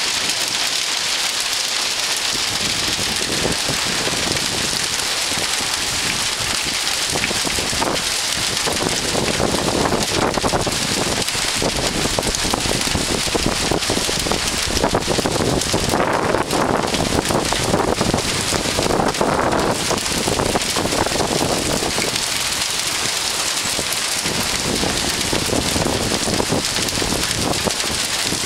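Heavy rain mixed with hail, a dense steady downpour with many separate stones and drops striking surfaces. It swells somewhat louder in the middle.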